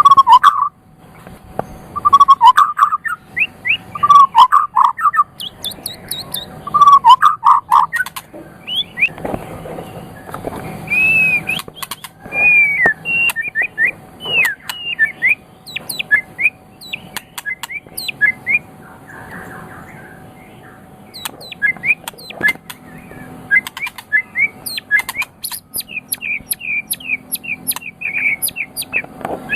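White-rumped shama (murai batu) singing a varied, loud whistled song. It opens with a low, full phrase repeated about every two seconds, then switches to rapid high chirps and sweeping notes, ending in a quick run of notes.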